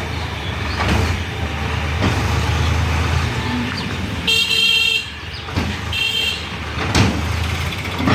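A tractor engine running with a steady low rumble, with two short high-pitched horn toots a little past the middle, and a few knocks.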